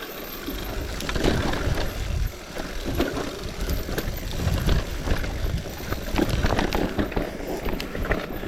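Wind buffeting the microphone and road rumble from a moving ride, rising and falling in gusts, with scattered small clicks and rattles.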